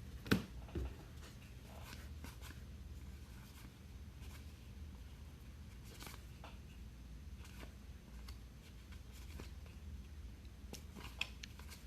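Faint clicks and light rustles of trading cards being handled and flipped through, with a sharp knock about half a second in, over a steady low hum.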